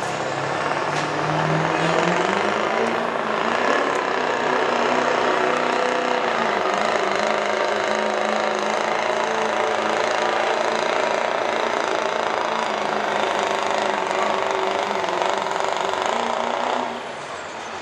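Diesel pickup truck engine at full throttle making a pull, climbing in pitch over the first couple of seconds, then holding a steady, loud drone until it drops off suddenly near the end.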